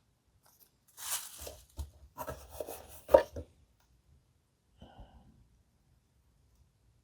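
Small packaging handled during unboxing: rustling and scraping with several sharp clicks of plastic parts, from about a second in until a loud click just after three seconds, then a faint tap near five seconds.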